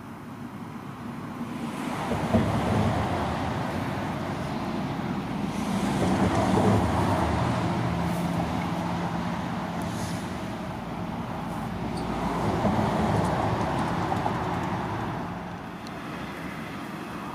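A train passing with a low engine drone, growing louder and fading in several swells, with a sharp knock about two seconds in.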